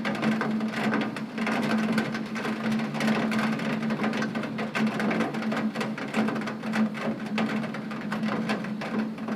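Heavy rain hitting a window pane: a dense, uneven patter of drops over a steady low hum.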